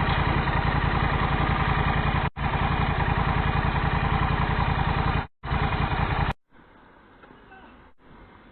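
A motor vehicle engine running steadily with a rapid, even firing pulse. It is broken by two abrupt cuts, about two and five seconds in, and stops suddenly about six seconds in, leaving only a faint background.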